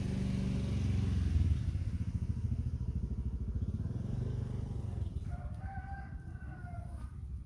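A motorcycle engine runs close by, loudest in the first second and a half, then fades. About five seconds in, a rooster crows once, a long call of nearly two seconds.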